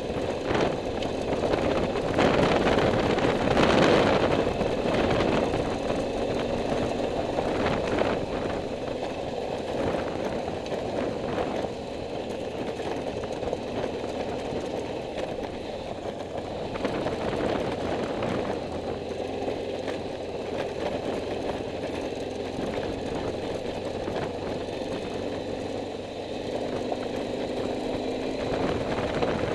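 Motorcycle engine running steadily while riding along a road, with road and wind noise. It swells louder for a few seconds near the start.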